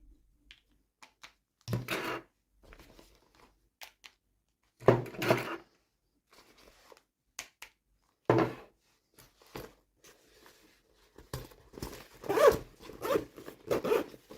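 Toy packaging being torn open and handled by hand: short bursts of tearing and rustling with small clicks and knocks, coming closer together near the end.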